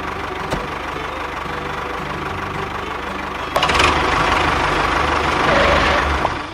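Engine-like running with a steady low rumble. About three and a half seconds in, a louder rushing noise starts suddenly and dies away just before the end.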